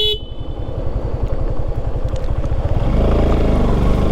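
Motorcycle engine pulling uphill with a low pulsing note, which grows louder and fuller about three seconds in as the revs rise. A short horn beep ends right at the start.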